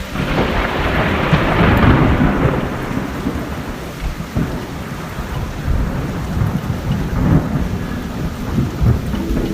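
Thunder rumbling over steady heavy rain. The rumble is loudest in the first couple of seconds, then continues more quietly under the hiss of the rain.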